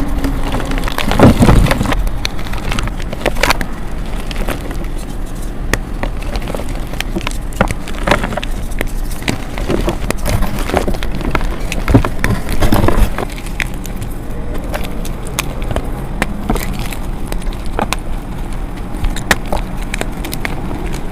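Blocks of gym chalk being crushed and crumbled close to the microphone: a dense run of irregular crunches and crackles, with heavier crunches near the start and again about two-thirds through.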